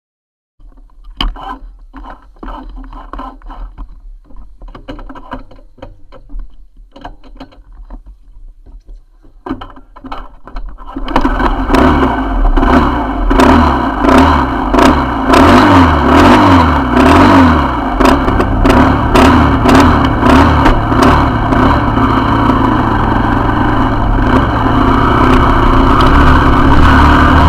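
Motorcycle engine running quietly and unevenly at first, then from about eleven seconds in loud and revving up repeatedly in rising sweeps as it pulls through the gears, settling to a steady run near the end.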